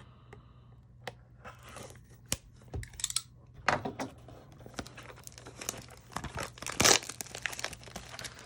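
Plastic shrink-wrap being slit with a knife and torn off a trading-card blaster box, crinkling and tearing in irregular bursts, loudest about seven seconds in.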